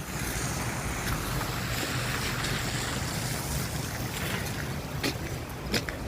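Street traffic: a vehicle passing on a wet, slushy road, its tyre hiss swelling and then fading over a low rumble, with a few sharp clicks near the end.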